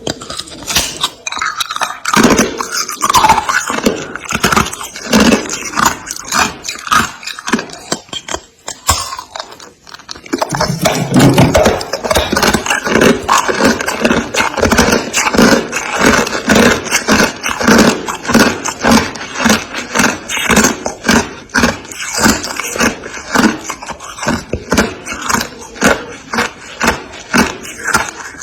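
Freezer frost being scraped in quick, repeated strokes close to the microphone, a few strokes a second, with a short pause about nine seconds in.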